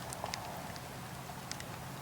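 Wood campfire crackling: a few sharp pops and snaps, the loudest near the start and again about a second and a half in, over a steady rushing hiss of the flames.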